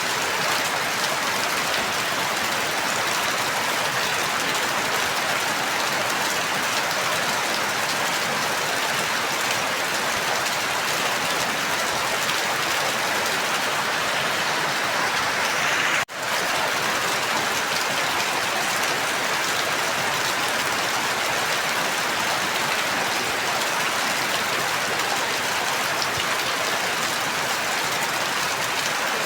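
Steady, even rainfall. It cuts out for an instant just past halfway, then carries on as before.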